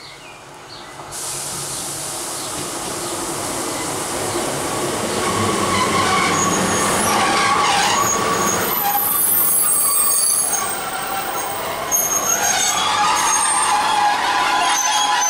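Class 150 Sprinter diesel multiple unit running into the station and braking: rail noise grows louder as it nears, with high-pitched brake squeals from about six seconds in and again near the end as it slows.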